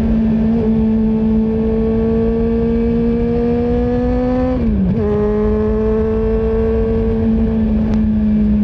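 Honda CB400SF inline-four through a Yoshimura full exhaust, pulling steadily with revs climbing slowly, then a quick upshift about halfway through that drops the engine note before it holds steady again. Wind rumbles on the microphone underneath.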